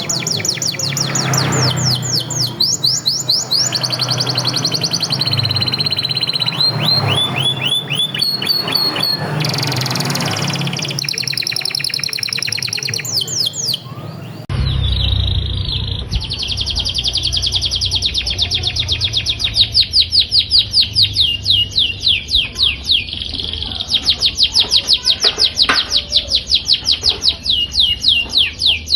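Domestic canaries singing loud, fast rolling trills, many notes a second repeated in long tours. About halfway through, the song cuts suddenly to another canary recording with a low hum beneath.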